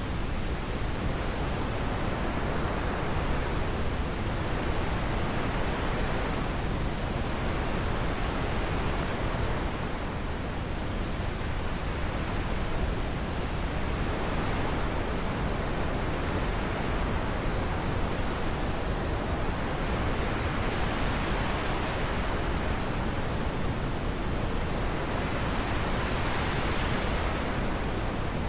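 Wind blowing steadily, with a few gusts swelling into a brighter hiss, about three seconds in, through the middle and near the end.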